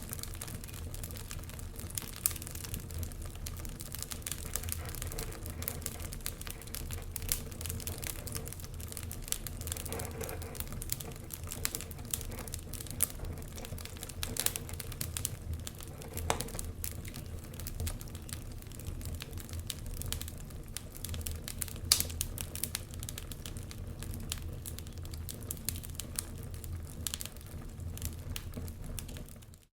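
Wood fire crackling, with frequent irregular sharp pops and snaps over a low steady rumble. The sound drops out briefly at the very end.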